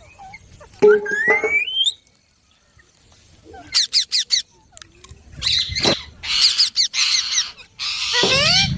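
Indian ringneck parakeets calling: a rising call about a second in, a quick run of short chirps around four seconds, then harsh, screechy squawks through the last few seconds.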